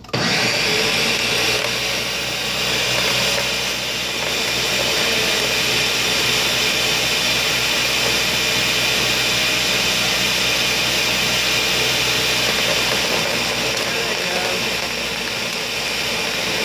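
Ninja countertop blender running at full speed, chopping a jar tightly packed with greens and cranberries. It starts suddenly and keeps up a loud, steady whirring noise without stalling.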